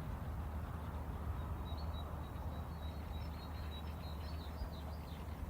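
Outdoor background noise with a steady low hum, and faint high chirping of small birds throughout.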